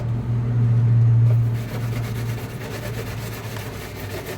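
Soapy wire scrubber rasping on a refrigerator part as grime and stuck-on food are scrubbed off, starting about a second and a half in. A steady low hum runs underneath and is loudest in the first second and a half.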